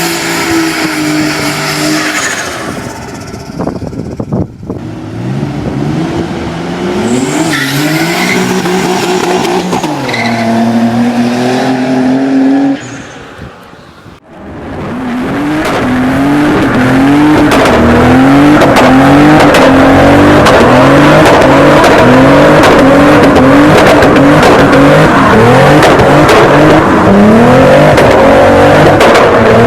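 Nissan 300ZX sports car engine revving hard while driven, its pitch rising and falling. The sound drops away briefly about halfway through. After that comes a loud stretch in which the revs climb and fall over and over, about once a second.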